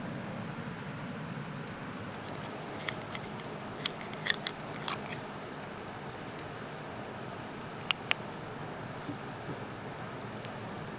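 Insects buzzing steadily over the even rush of a creek, with a few sharp clicks about four seconds in and two more near eight seconds.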